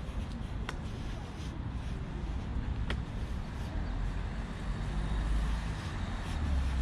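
Steady low rumble of road traffic, swelling near the end as a vehicle goes by, with a couple of sharp ticks.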